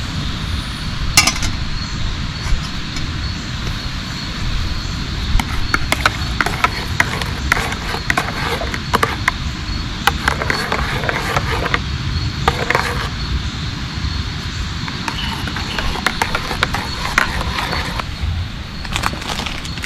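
Steady heavy rain falling, with scattered clicks and rustles in the middle stretch.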